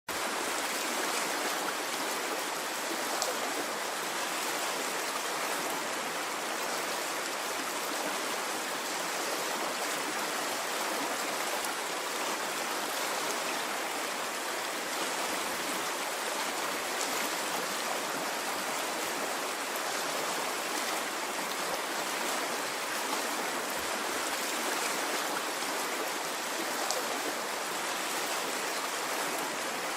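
Water flowing in a stream, a steady unbroken rush with no rise and fall of waves.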